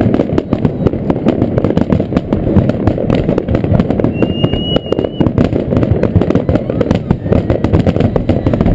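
Fireworks display: a dense, rapid barrage of bangs and crackles over a continuous low rumble. A short high whistle sounds about four seconds in.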